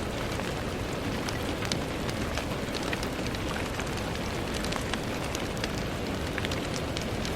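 Steady rain falling on a window pane, an even hiss with many small, sharp drop ticks scattered through it.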